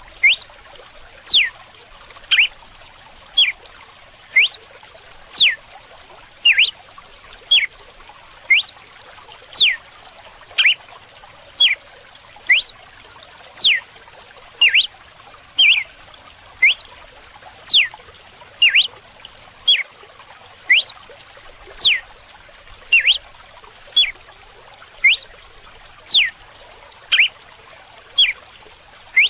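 Red-cowled cardinal singing its whip-like 'açoite' song: sharp notes repeated about once a second, short ones alternating with long falling whistles, over a steady trickle of running water.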